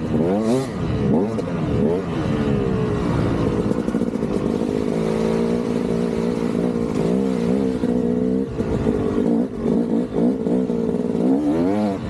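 KTM 200 two-stroke single-cylinder dirt bike engine revving up and down repeatedly under changing throttle, its pitch climbing and falling, held fairly steady for a couple of seconds about halfway, with short drops off the throttle later on.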